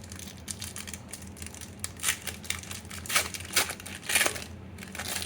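Foil wrapper of a Pokémon trading card booster pack crinkling and tearing as the pack is opened and handled. The crackles come irregularly, the loudest a few times in the second half.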